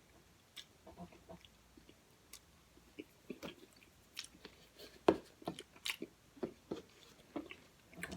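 Close-miked mouth sounds of someone eating cotton candy: soft chewing and wet lip smacks, a run of short clicks that grows busier and louder from about four seconds in.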